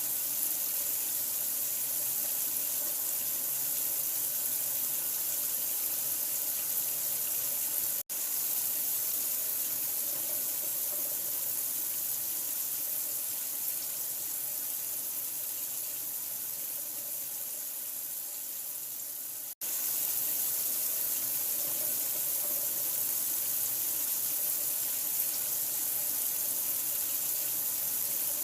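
Running water pouring steadily with an even, hissy rush, used as soothing white noise. The sound cuts out for an instant twice, about eight and twenty seconds in, where the recording is spliced.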